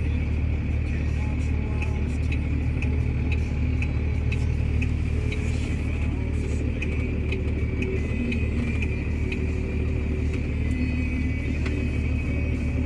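Tow truck engine idling steadily, a constant low drone heard from inside the cab.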